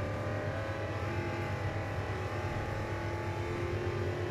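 Race car engine sound effect running steadily, a held engine note over a low drone.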